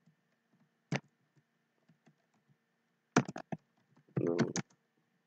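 Computer keyboard and mouse clicks: a single click about a second in, then a quick run of clicks just after three seconds and another tight cluster around four and a half seconds.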